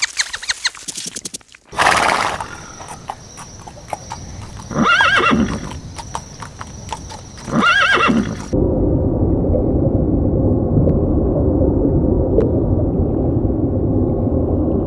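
Horse neighing twice in short calls about three seconds apart, after clicking hoof sounds and a loud burst of noise about two seconds in. A steady low rushing noise takes over for the last six seconds.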